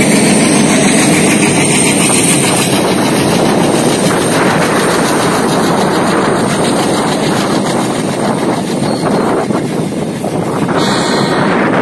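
Double-stack container freight wagons rolling past at close range: a loud, steady rush and rattle of steel wheels on the rails, with repeated clicking as the bogies cross the rail joints.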